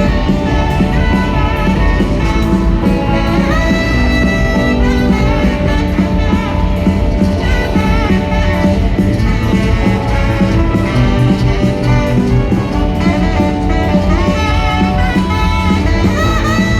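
Live rock band playing a loud instrumental passage with a full band sound, including a long held high note about four seconds in and again near the end.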